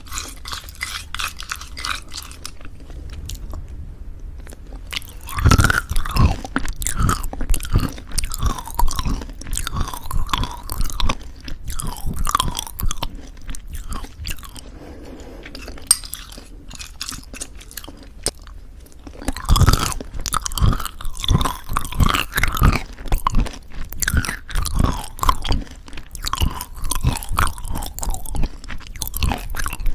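Close-up chewing of crunchy granola in thick yogurt: rapid crisp crunches that come in two long bouts, with softer, quieter chewing in between.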